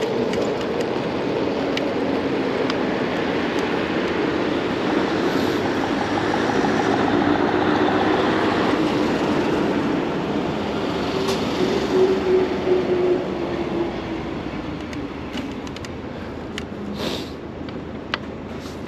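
Steady running noise of a passing vehicle with a low hum, swelling through the middle and fading toward the end.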